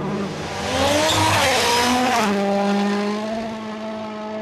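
World Rally Car's 1.6-litre turbocharged four-cylinder engine at high revs under full throttle, with a hiss of tyres on the stage in the first half. The pitch climbs and wavers, dips briefly about two seconds in, then holds one steady high note.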